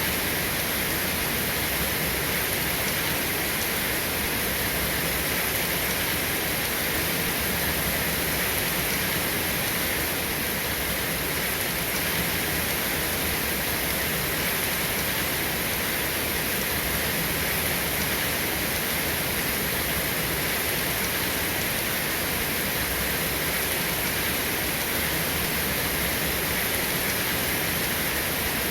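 Steady, continuous rain falling, an even hiss with no thunder or separate drops standing out.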